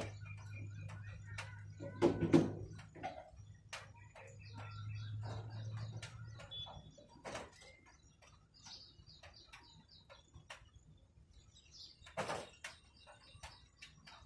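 Small birds chirping in short, scattered calls. A low steady hum stops about halfway through, and a loud knock comes about two seconds in, with another near the end.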